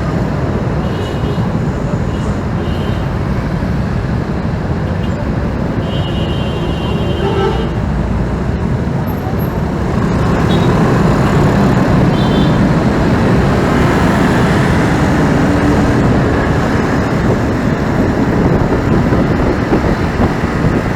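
Riding a motorcycle through busy city traffic: steady engine, tyre and traffic noise, a little louder from about halfway through.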